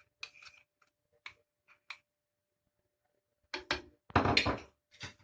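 Cookware being handled: a few faint clicks, then from about three and a half seconds in a couple of louder knocks and clatters.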